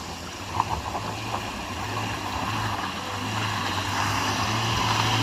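Pickup truck engine running with a steady hum, growing steadily louder, with a few short knocks about half a second to a second and a half in.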